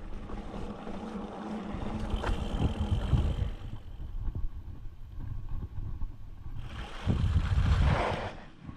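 Wind rumbling on the microphone of a camera on a moving mountain bike, mixed with the noise of the bike rolling over the trail; the rumble surges louder about seven seconds in.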